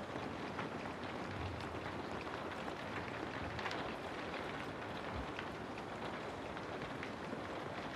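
Steady rainfall, a dense even patter with scattered close drops ticking on a surface.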